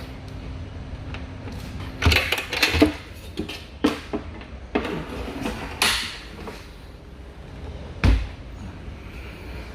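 A series of clunks and knocks, about half a dozen over four seconds, then one more about eight seconds in, heard over a low steady hum.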